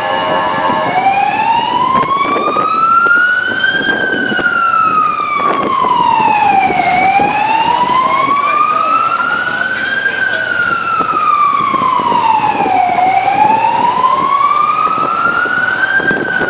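Emergency vehicle siren sounding a slow wail, its pitch rising for about three seconds and falling for about three, over steady street noise.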